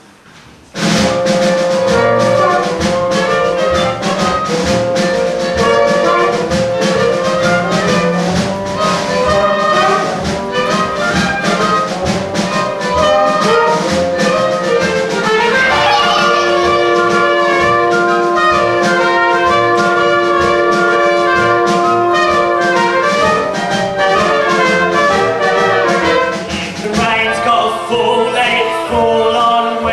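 Up-tempo show-tune music from a band with trumpets and trombones to the fore, starting suddenly about a second in. A long held note sounds in the middle.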